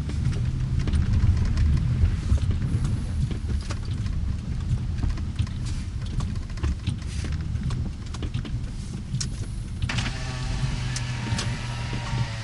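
A motor vehicle's engine running with a steady low rumble. Faint pitched sounds join in near the end.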